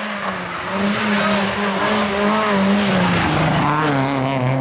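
Rally car engine running at high revs, its pitch dropping about three seconds in and holding lower, with tyre and gravel noise underneath.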